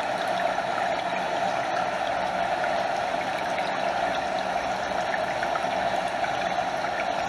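A stream flowing over a small waterfall: a steady rush of water with small splashes and trickles flecked through it.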